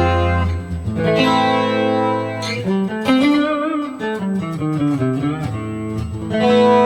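Electric guitar played with a clean tone through a Valeton GP200 modeling unit's amp simulation, with compression and an EQ boosting the highs and lows. It plays ringing chords, then a single-note melody with vibrato about three seconds in, and a new chord near the end.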